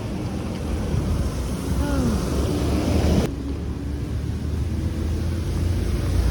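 Steady low rumble with a hiss, like a moving vehicle with wind buffeting the microphone; the sound changes abruptly a little over three seconds in.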